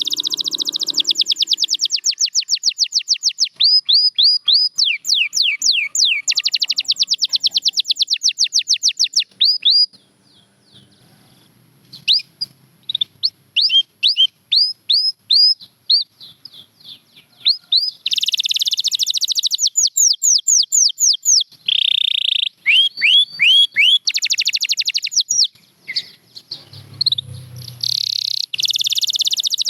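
Canary singing: fast trilled runs of rapidly repeated high notes and sweeping whistled notes. The song thins to scattered single notes for several seconds in the middle before the fast runs return.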